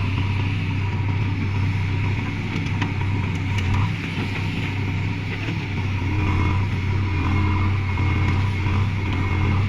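Heavy diesel engine of earthmoving machinery running steadily with a deep, even hum and a few faint clicks.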